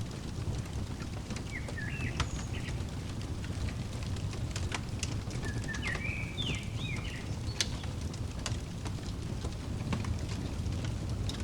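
Crackling wood fire, sharp pops and snaps scattered over a steady low rumble. Twice a bird gives a short run of quick chirps.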